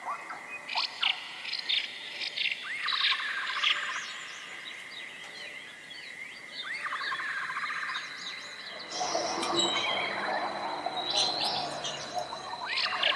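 Songbirds chirping and singing: short repeated chirps and trilled phrases. About nine seconds in, the sound changes abruptly to a busier, denser chatter of many birds.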